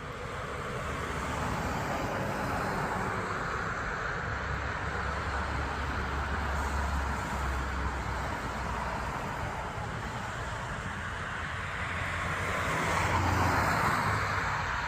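Steady road-traffic noise with a low rumble. A vehicle swells louder and fades away near the end.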